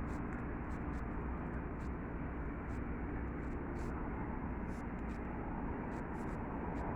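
Steady outdoor background rumble, like distant traffic, with faint scattered ticks.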